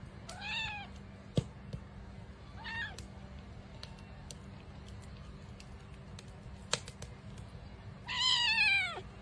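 A domestic cat meowing three times: two short meows in the first few seconds, then a longer, louder one near the end. A few faint clicks are heard in between.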